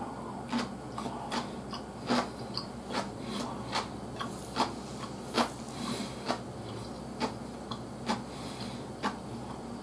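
Close-up chewing and lip-smacking of a man eating mapo glass noodles: quiet, wet mouth clicks and smacks coming irregularly, about one or two a second.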